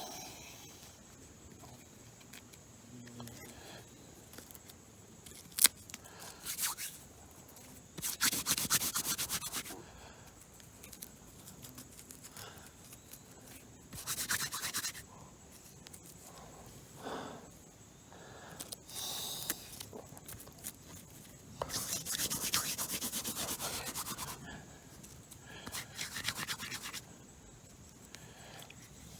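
Birch bark being torn and rubbed by hand into tinder: several scratchy, rustling bursts of one to two seconds with pauses between, and one sharp click about six seconds in.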